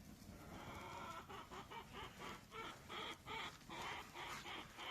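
Chickens clucking faintly in a string of short, soft calls.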